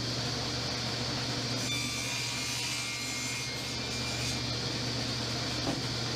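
Table saw running steadily, with a constant motor hum under the blade noise, squaring up the edge of a wooden beehive box.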